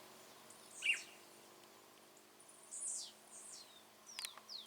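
Wild birds giving short, high chirps and quick downward-sliding whistled calls, a few at a time with gaps between, over a faint steady low hum.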